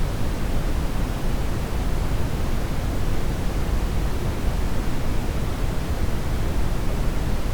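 Steady brown noise: an even, deep hiss with most of its weight in the bass, unchanging throughout.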